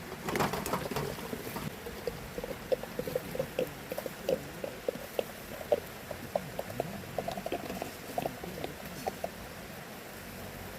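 Mackerel grilling over a wood fire, crackling and spitting with many small irregular pops.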